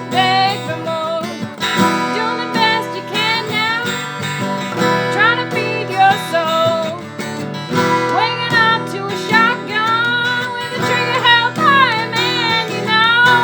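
Acoustic folk song: strummed acoustic guitar with a gliding melody line over it.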